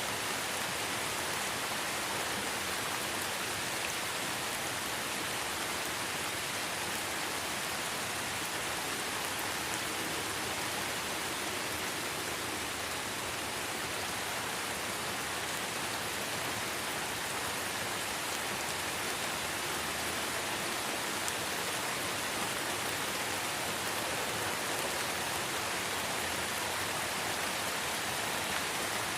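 Steady light rain falling in a forest: an even, unbroken hiss of many small drops with no distinct individual hits.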